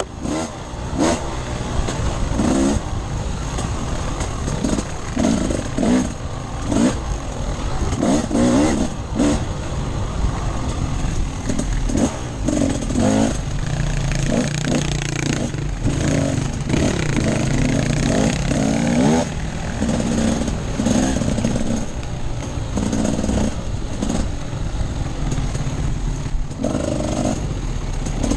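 Off-road enduro motorcycle being ridden hard, its engine revving up and dropping back over and over as the throttle is worked.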